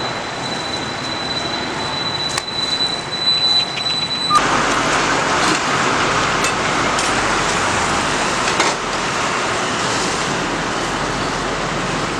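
Steady roadside street noise, mostly passing traffic. It changes abruptly about four seconds in and grows slightly louder.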